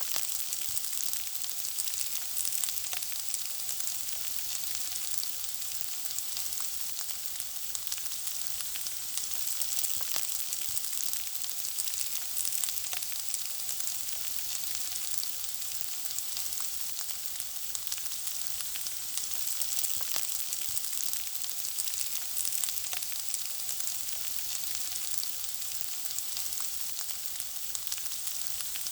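Food frying in hot oil: a steady sizzle with a continuous patter of fine crackles and pops.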